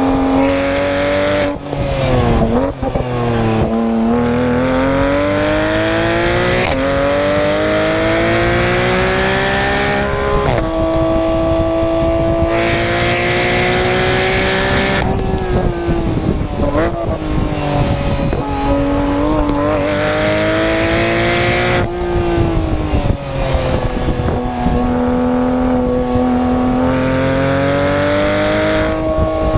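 Porsche 991 GT3 RS's 4.0-litre flat-six at full throttle on track, its pitch climbing steadily through the revs in long pulls. The pitch drops sharply at each upshift, and dips with quick wobbles where the car brakes and downshifts.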